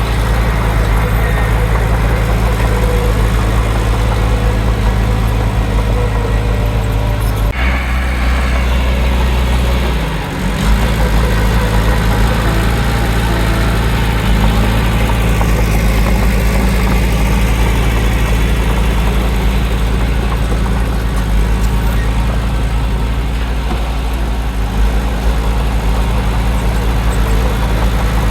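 Heavy diesel engine of earthmoving machinery running steadily with a low drone. The tone changes abruptly about seven and a half seconds in and dips briefly around ten seconds before settling back to the same steady running.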